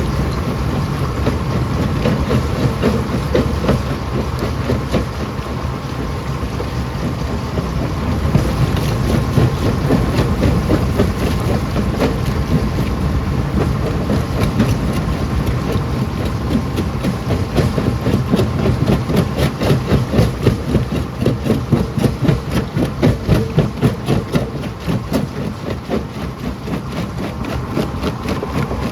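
Rock crusher running under load, with rocks cracking and knocking through it over a steady machine drone; the knocks come thick and pulse in the second half.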